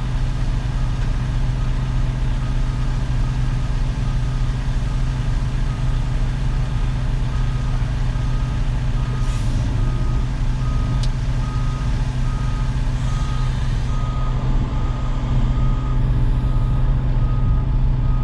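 Concrete mixer truck's diesel engine running steadily, with a reversing alarm beeping a little more than once a second from about two seconds in until near the end.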